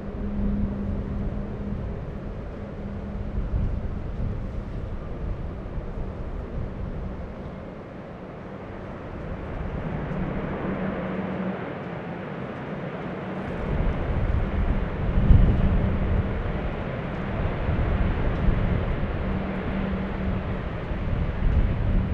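Jet airliner engines running with a continuous roar and a steady low hum, growing louder and rumbling heavily about two thirds of the way through.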